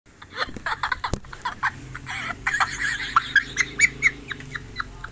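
Chickens clucking in a rapid string of short, high calls that start abruptly and grow denser toward the middle.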